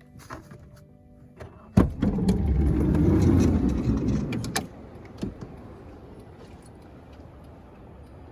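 A few light clicks and a sharp knock, then about three seconds of loud, low rushing noise that stops abruptly with a sharp click, leaving a steady lower hiss.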